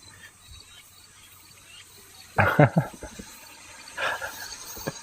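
A red panda gives a short, harsh call about halfway through, then a fainter call about a second and a half later, the kind of squealing the animals make while squabbling.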